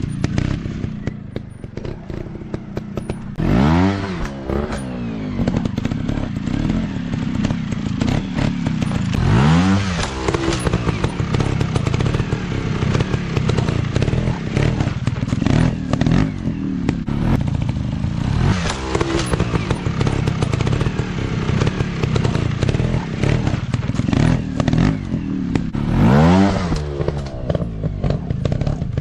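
Off-road motorcycle engine running continuously, blipped up into four sharp revs that rise steeply in pitch, spread through the clip.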